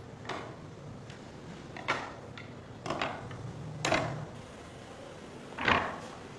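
Light knocks and clatters, about six at uneven intervals, the loudest near the end, as wooden pieces are handled and set down.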